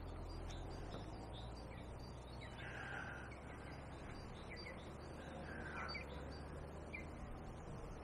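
Faint wild birds calling, with short chirps scattered throughout and two louder, longer calls about three and six seconds in, over a low steady background rumble.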